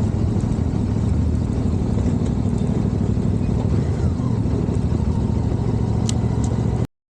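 CFMOTO 450MT adventure motorcycle running under way, a steady low rumble with noise over it. It cuts off suddenly near the end.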